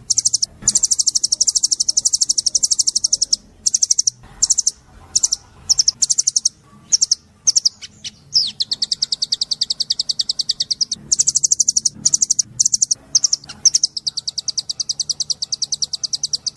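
White-eye (pleci) singing its rapid-fire 'tembakan' song: long, fast trills of high, sharp repeated notes. About a third of the way in they break into short bursts, then run on as long trills again.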